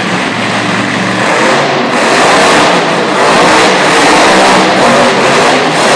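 Monster truck engine running loud at high revs as the truck spins donuts, getting a little louder about two seconds in.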